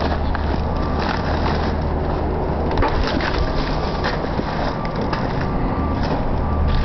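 Crunching and crackling of burnt debris underfoot, over a steady low rumble.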